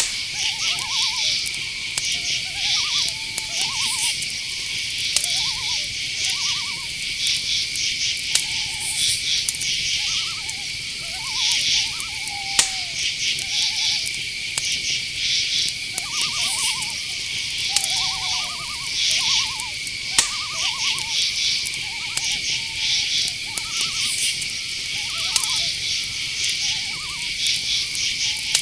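Night-time insect chorus: crickets chirping in quick pulsed bursts over a steady, unbroken high drone, with many short, lower calls scattered through it and a couple of sharp clicks.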